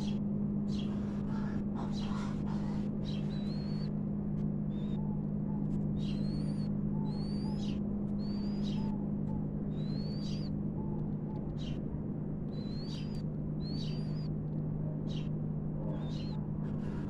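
Small bird chirping, short rising chirps about once a second, over a steady low electrical hum.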